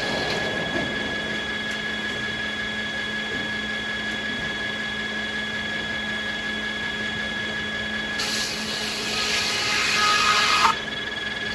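Sawmill machinery running with a steady hum and whine. About eight seconds in, a saw cuts through wood for about two and a half seconds, growing louder, then stops abruptly.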